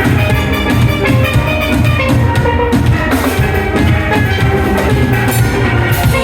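Steel band playing: steelpans carrying a tune over drums and a heavy bass line.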